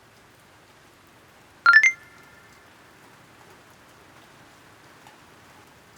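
Faint steady rain hiss, broken about two seconds in by a quick run of three rising chime notes that ring briefly.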